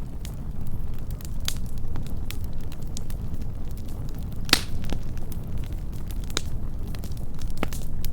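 Wood campfire burning up close: a soft steady roar with scattered sharp crackles and pops, the loudest pop about halfway through.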